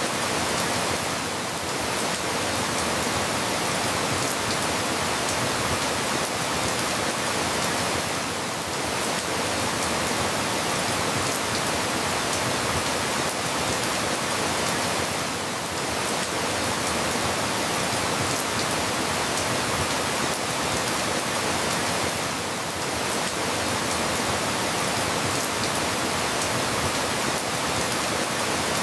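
Steady rain, a dense even hiss with no separate sounds standing out, dipping slightly in level about every seven seconds.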